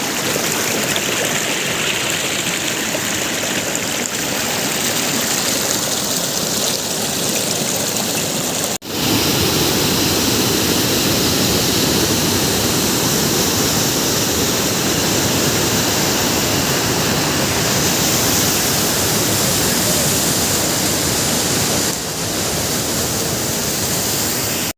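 Waterfall on a river: a loud, steady rush of falling water. It breaks off for an instant about nine seconds in and shifts slightly in tone near the end.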